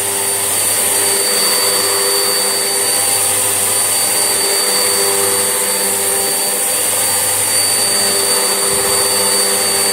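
Vax Essentials vacuum cleaner running steadily: a continuous rush of motor and airflow with a steady high whine.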